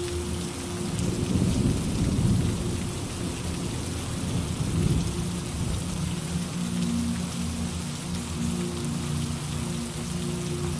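Steady rain hissing, with a low rumble of thunder that swells about a second in and fades after about three seconds, and a smaller rumble around five seconds.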